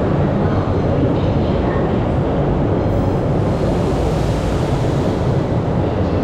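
Steady, loud rumble of a train in an underground station, with a brighter hiss joining about three seconds in.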